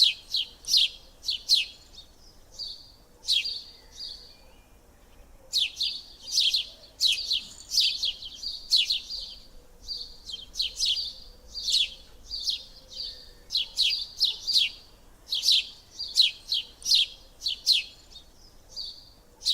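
Small birds chirping: quick, high, downward-sweeping chirps in clusters of two to four, with short pauses between the clusters.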